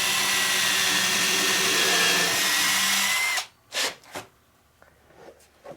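Electric power drill running steadily at one speed for about three and a half seconds, then stopping abruptly, followed by two brief blips of the trigger.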